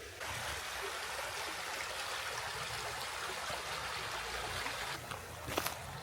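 River water flowing, a steady rushing and trickling that sets in abruptly at the start, with a few sharp clicks near the end.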